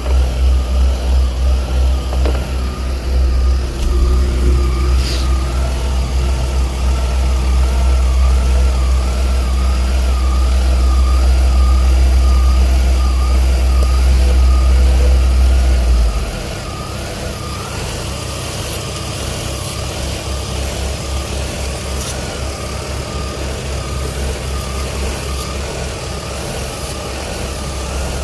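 2000 Ford Windstar's 3.8-litre V6 idling rough with a misfire and running lean, which the mechanic takes for an intake leak or low fuel pressure. The low pulsing of the engine is strong for the first half and drops much quieter about halfway through.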